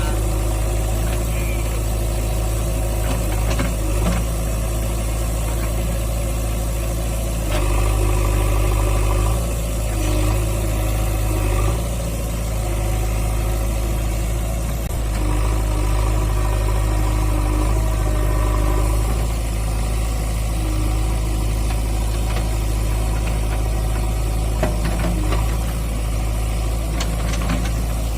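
JCB 3DX backhoe loader's diesel engine running steadily, its note rising and easing a few times as the load changes.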